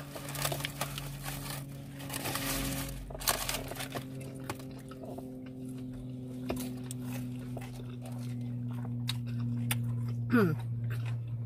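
Paper burrito wrapper crinkling as a bite is taken, then quiet chewing with small wet clicks. A steady low hum runs underneath, and a short falling "mm" comes near the end.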